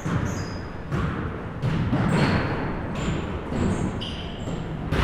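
Basketball bouncing on a gym floor: a few irregular thuds, with short high squeaks between them.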